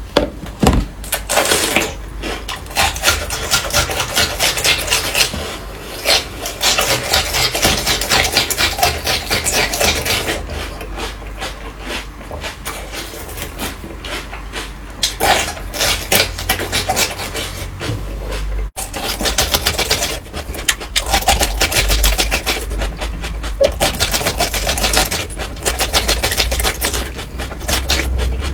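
Close-miked eating sounds: chewing and mouth noises in a rapid, crackly run of clicks, with a few short pauses between mouthfuls.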